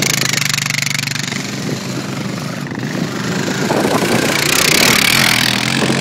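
Small off-road vehicle engine running on sand, with a steady hum that grows louder and rougher over the second half.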